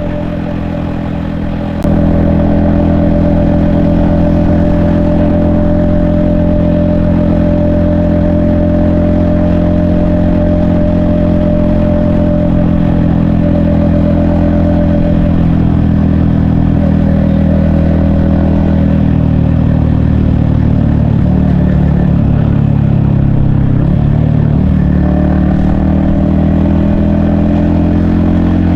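Yamaha XSR155's 155cc single-cylinder engine and exhaust running under way. It gets louder about two seconds in, holds a steady pitch, then rises and falls in the second half as the throttle changes.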